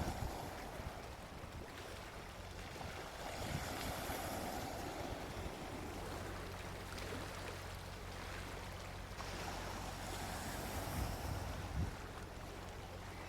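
Gentle sea waves washing onto a beach, the surf swelling twice and easing back, over a steady low rumble.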